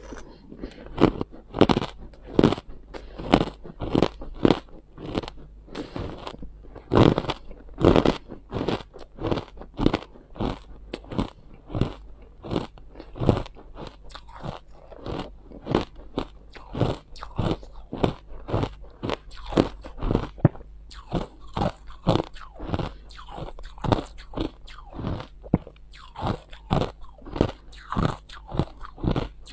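Ice being bitten and chewed close to the microphone: a steady run of sharp, irregular crunches, about two a second.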